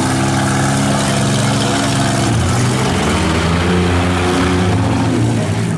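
Engines of demolition derby minivans and SUVs running loud, their pitch rising and falling as they rev.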